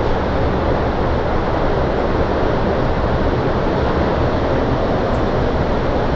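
Steady, loud rushing noise of strong storm wind, with no let-up.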